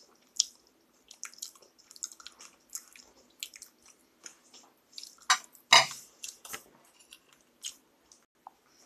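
Mouth sounds of someone chewing food close to the microphone, ASMR-style: irregular small clicks, louder for a moment about five and a half seconds in.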